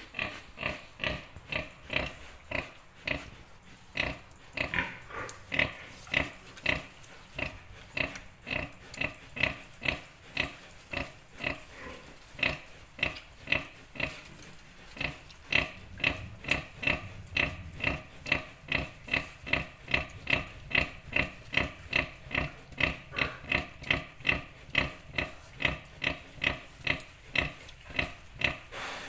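Pig grunting in a steady rhythm, about two to three short grunts a second, typical of a sow's nursing grunts while her piglets suckle.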